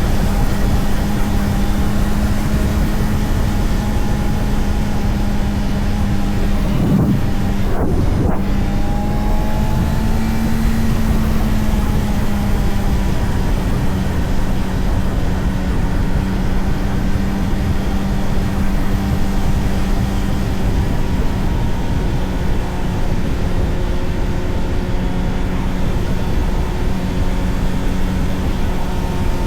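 Honda CBR600RR inline-four engine running at a steady cruise under heavy wind rush. About seven seconds in, the engine note briefly dips and climbs back twice, then holds an even pitch.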